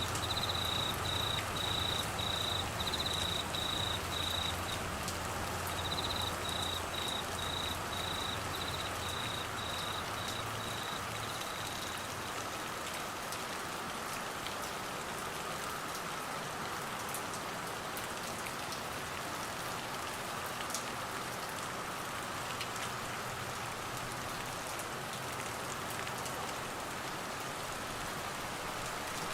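Steady rain falling, with scattered drop ticks. A cricket chirps in short regular chirps, pausing once, for roughly the first dozen seconds, then the rain continues alone.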